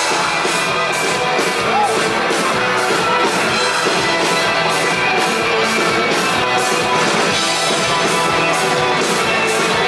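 Live rock band playing an instrumental passage: electric guitars over a steady drum beat, about two hits a second.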